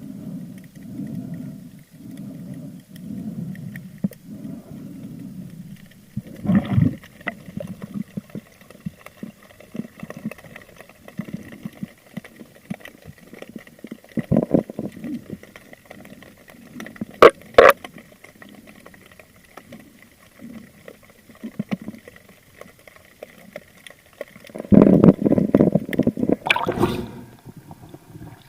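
Muffled underwater sloshing and gurgling of sea water around a camera, swelling in rhythm about once a second at first, with a few sharp knocks midway and a louder churning stretch near the end.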